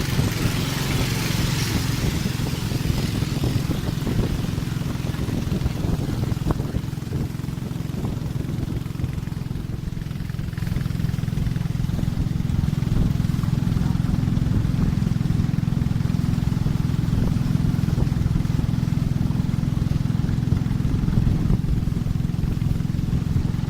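Boat engine running steadily under way, a low drone, with a hiss in the first few seconds.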